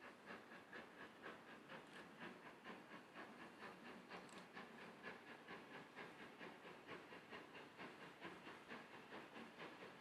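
Steam locomotive working, its exhaust beats heard faintly and evenly at about four a second over a steady hiss of steam.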